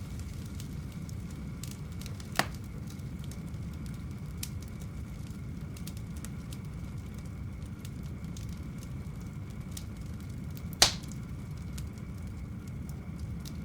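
Wood fire burning in a fireplace: a steady low rumble with faint scattered crackles, and two sharp, loud pops of burning wood, one about two and a half seconds in and a louder one near eleven seconds.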